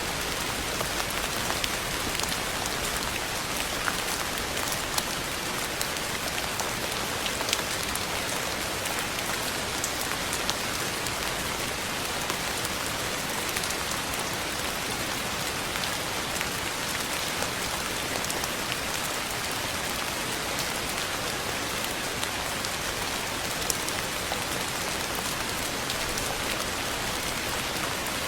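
Steady rain falling on a surface: a dense, even hiss with scattered individual drop ticks.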